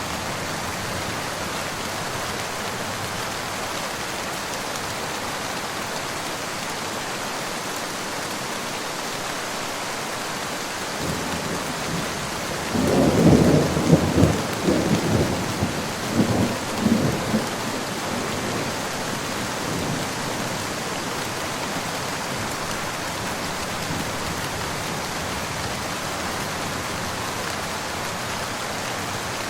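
Steady rain falling, with a roll of thunder about a third of the way in that builds, rumbles through several loud peaks for a few seconds, then fades back under the rain.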